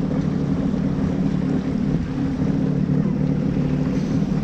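Jet ski engine running at a steady, unchanging speed.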